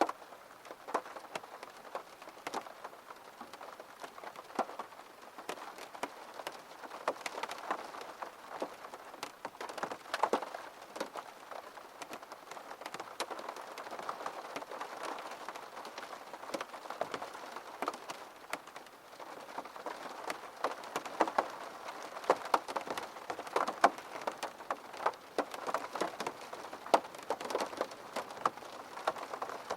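Gentle rain falling steadily, with many separate drops tapping distinctly on a surface over a soft, even patter.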